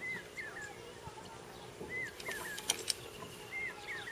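A bird repeating a short three-note call, an arched whistle followed by two quick falling notes, about every second and a half. Two sharp clicks come a little past the middle and are the loudest sounds.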